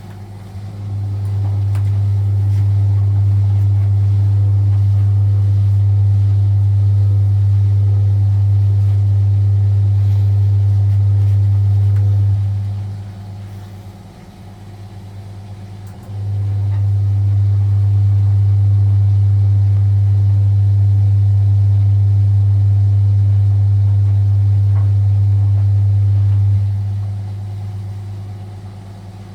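Vintage Frigidaire Super Deluxe Automatic 50 front-loading washing machine on its final spin, its induction motor spinning the drum with a loud, steady hum. The hum runs about twelve seconds, dies away for a few seconds, starts again for about ten seconds, then dies away near the end: the spin is being pulsed on and off.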